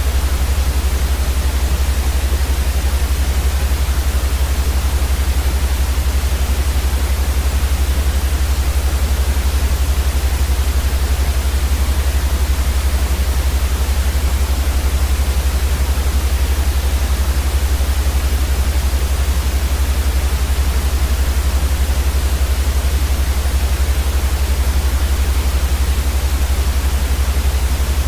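Steady, unchanging white noise for baby sleep: a flat hiss across the whole range with a strong deep rumble underneath.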